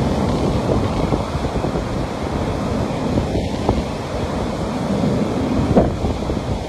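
Sea waves washing onto a beach, a steady rush of surf, with wind buffeting the microphone.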